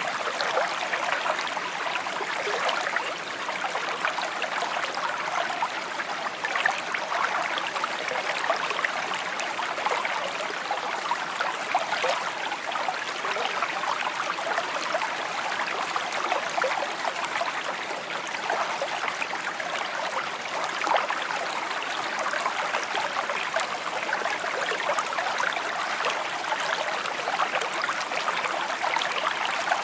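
Small shallow stream babbling and trickling over stones, a steady bright rush of many fine splashes and gurgles.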